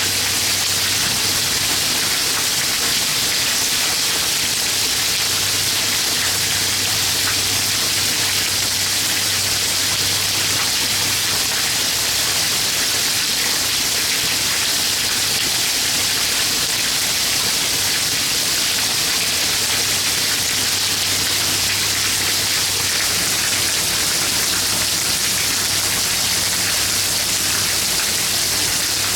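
Heavy downpour in a severe hailstorm: a steady, dense hiss of rain, and perhaps small hail, striking surfaces without let-up.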